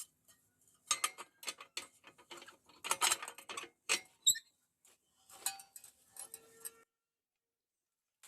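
Irregular metallic clicks, taps and clinks, some with a short ring, as steel pieces or tools are handled and knocked together; the sound cuts off abruptly near the end.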